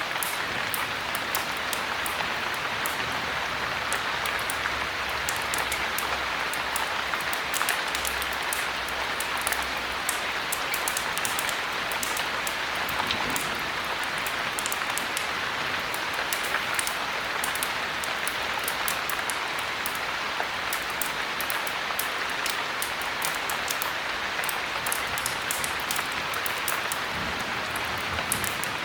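Heavy rain falling steadily, an even hiss with many faint sharp ticks scattered throughout.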